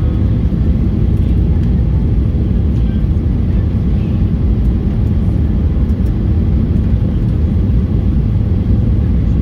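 Cabin noise inside a Boeing 737-800 near the wing: a steady low roar of its CFM56 jet engines and the airflow over the fuselage, with a faint steady hum.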